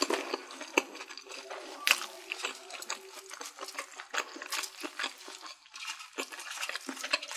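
Close-miked chewing and wet mouth sounds, a quick run of small clicks and crackles, with light knocks of a sea snail shell being picked up from a plate.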